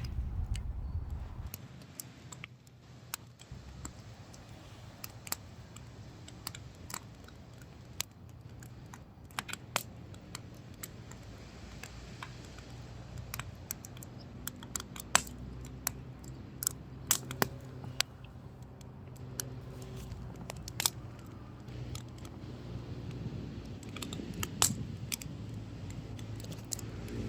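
Wood fire crackling, with irregular sharp pops and snaps. A low engine hum from a vehicle comes in about halfway and grows louder toward the end.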